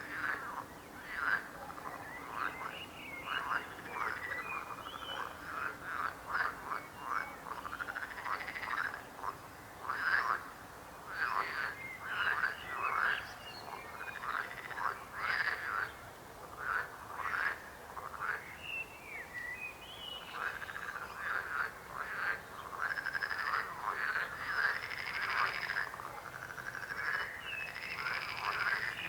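A chorus of frogs croaking, many short calls overlapping one another continuously.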